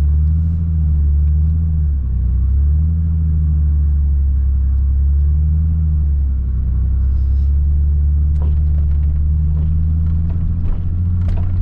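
Nissan 300ZX engine droning steadily at low revs while driving through deep snow, the pitch dipping and settling a couple of times with changes of throttle. A few faint clicks sound late on.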